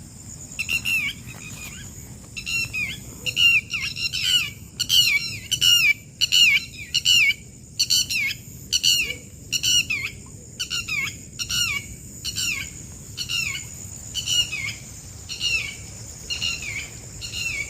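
A bird calling over and over: short, loud chirps that slide down in pitch, about two a second, sometimes in quick pairs. A steady high-pitched hiss runs underneath.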